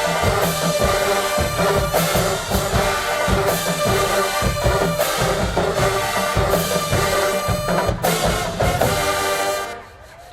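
HBCU marching band playing at full volume, brass holding a tune over pounding bass drums and snares, cutting off sharply near the end.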